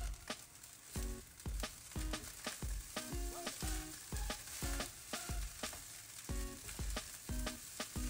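Fried rice stir-frying in a non-stick wok: a spatula scrapes and tosses the rice in quick repeated strokes, about two a second, each with a dull thud and a short scrape, over a steady sizzle.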